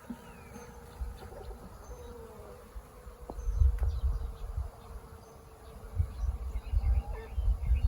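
Honeybees buzzing around an open hive, a steady wavering drone. Bursts of low rumble come about three and a half seconds in and again from about six seconds on.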